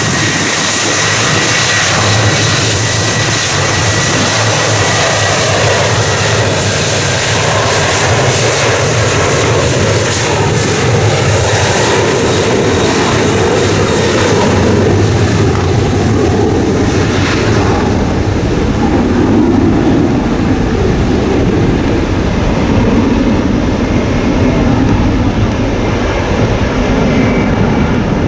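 Jet airliner's engines running loud and close, with a thin whine near the start that fades away. The hissing top of the noise dies away about two-thirds through, leaving a low rumble.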